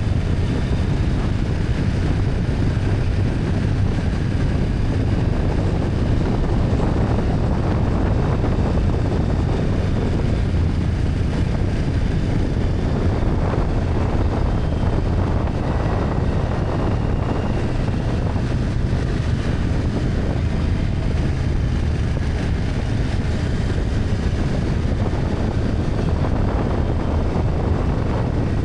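BMW F800GS parallel-twin engine running steadily while riding, mixed with wind rushing over the microphone.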